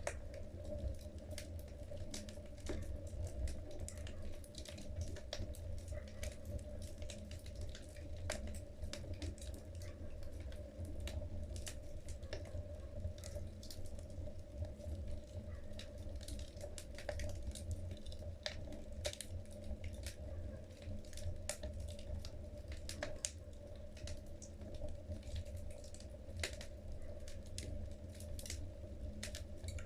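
Wood fire burning in a fireplace, logs crackling with many irregular sharp pops over a steady low rumble.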